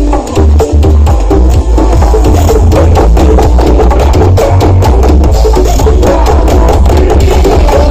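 Music with a heavy, pulsing bass and a driving drum beat, played very loud through a large outdoor battle sound system (sound horeg).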